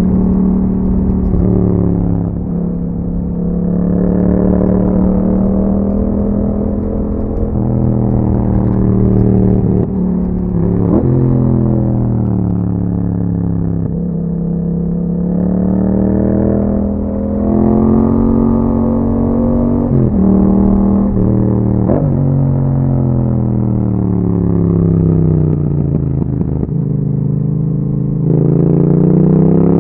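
A 2021 Yamaha MT-07's parallel-twin engine through an Akrapovic exhaust, ridden on the road. The revs climb and fall over and over, with sudden steps in pitch at the gear changes, and climb again near the end.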